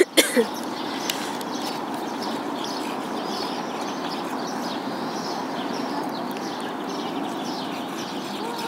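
Small birds chirping over steady outdoor background noise, with a sharp knock right at the start.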